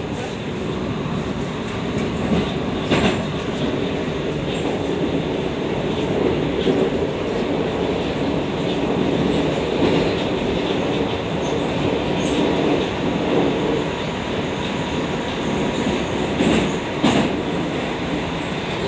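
81-760/761 "Oka" metro train running at speed through a tunnel: a steady rumble with wheel clatter, and sharper knocks over rail joints about three seconds in and again near the end.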